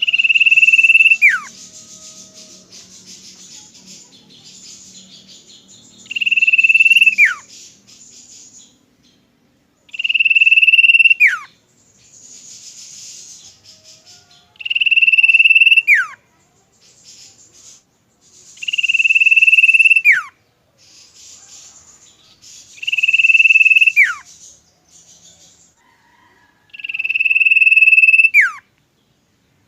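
Common iora singing: a long, held high whistle that ends in a quick downward slide, repeated seven times about every four seconds, with softer scratchy chatter between the whistles.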